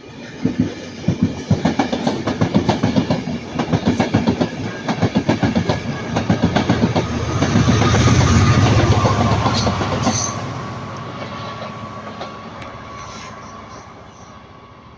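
Transport for Wales train of Mark 4 coaches with driving van trailer 82226 and Class 67 diesel locomotive 67029 passing: a fast clatter of wheels over rail joints, then a louder deep rumble about eight seconds in that gradually fades away.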